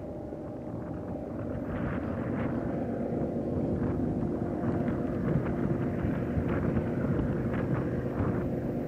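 Diesel locomotives of a BNSF freight train running with a steady engine drone that grows louder over the first few seconds as the train draws near, with short scattered squeals or clanks from the wheels.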